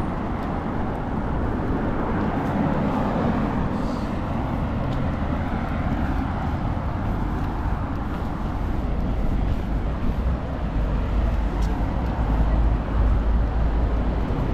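Steady city road traffic noise, with a deeper rumble growing stronger in the last few seconds.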